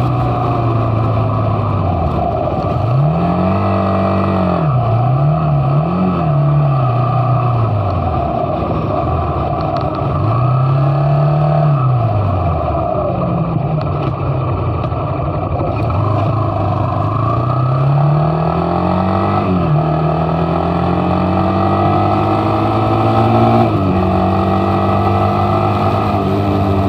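Motorcycle engine running under way. Its note climbs and drops again several times as the rider speeds up and eases off or shifts gear, over a steady rush of road and wind noise.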